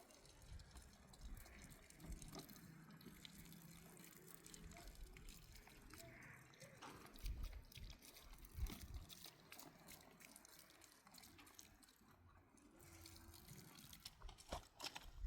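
Near silence: faint background with scattered small clicks and a few soft low thumps.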